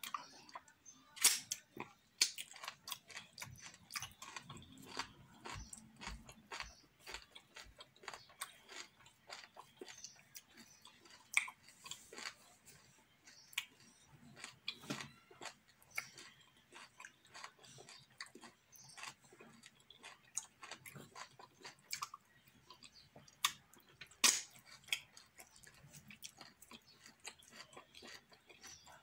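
A person chewing and smacking while eating fufu with ogbono and okro soup by hand: irregular wet clicks and smacks throughout, a few of them louder.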